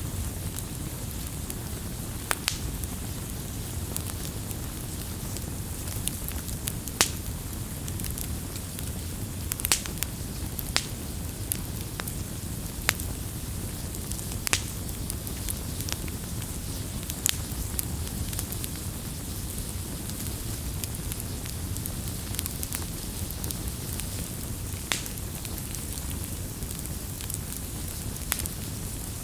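Wood fire burning with a steady low rumble and sharp crackles and pops every second or two.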